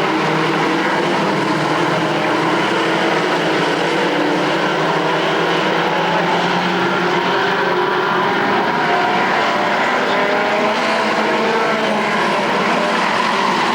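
Racing trucks' engines running together around the short-track oval: a steady, loud drone of several engines at once, their pitches wavering slightly against each other.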